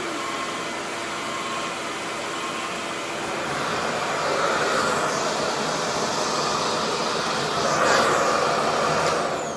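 Revair reverse-air hair dryer running at high suction and heat: a steady, loud rush of air that grows louder a few seconds in. Near the end the sound drops away with a falling whine as the motor spins down.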